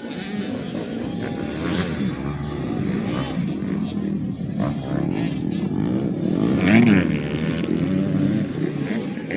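Several 85cc two-stroke motocross bikes racing, their engines revving up and down as they shift. One passes close about seven seconds in, its pitch rising and then falling.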